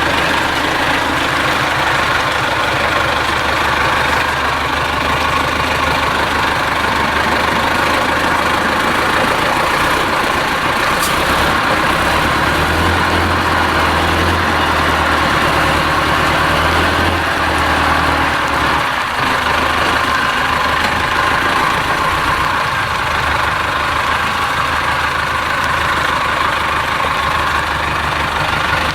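IFA W50 truck's diesel engine running at low revs, pulling harder for a few seconds around the middle before easing back.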